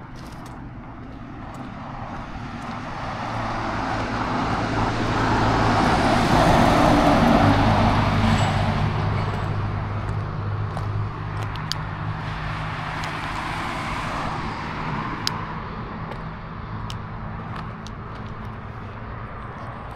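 A motor vehicle passes close by on the road: its engine hum and tyre noise swell to a peak about seven seconds in, then fade slowly into steady traffic noise.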